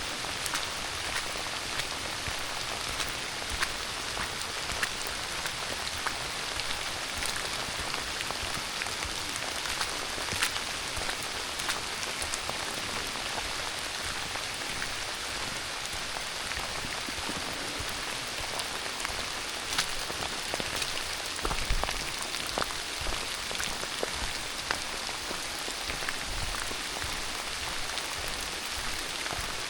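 Steady rain falling, an even hiss with scattered sharper drop taps close by, and a few soft low thumps in the second half.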